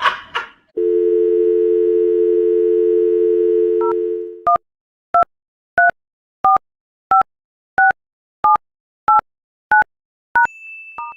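Telephone dial tone, steady for about four seconds, then touch-tone keypad beeps dialing a number: about eleven short evenly spaced beeps.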